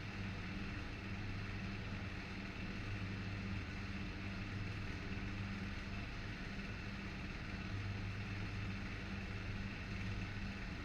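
Electric furnace running under its heating program: a steady electrical hum with a buzz and an even fan-like whir, unchanging throughout.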